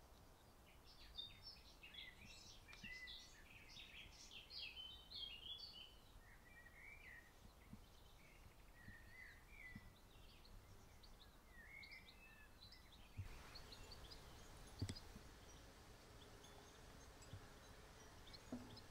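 Garden bird song, faint: a busy run of quick high chirps and short trills for the first dozen seconds. About 13 seconds in the background changes suddenly to a steady faint outdoor hiss with a few scattered chirps and a single sharp click.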